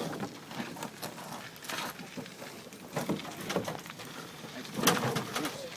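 A loaded aluminum boat on a wheeled cart with air tires rolling over tree roots and rough ground, knocking and rattling irregularly, loudest about five seconds in.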